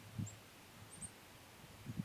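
A few brief, very high bird chirps, with two dull low thumps, one just after the start and one near the end, over a steady low hum.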